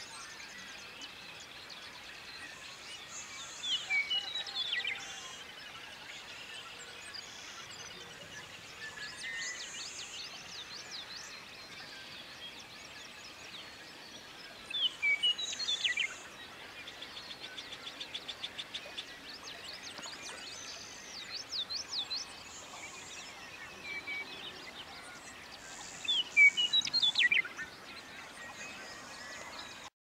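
Birds singing in a dawn chorus: one bird repeats a loud song phrase about a second and a half long three times, roughly ten seconds apart, while other birds chirp and trill between, one with a fast run of about ten notes a second.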